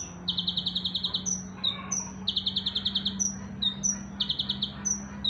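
A caged songbird singing a repeated phrase: a high down-slurred note followed by a fast, even trill of about a dozen notes lasting about a second, three times, roughly every two seconds.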